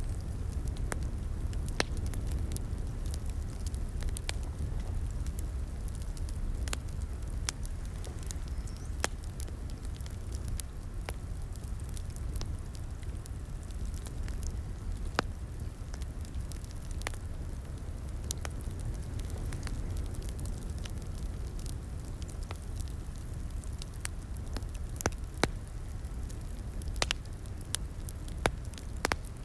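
Wood fire crackling in a fireplace: a steady low rumble of the burning fire with scattered sharp pops and snaps, coming a little more often near the end.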